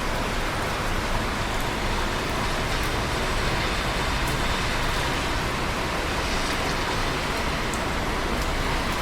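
Steady rain: a dense, even hiss of falling rain with a few faint drop ticks.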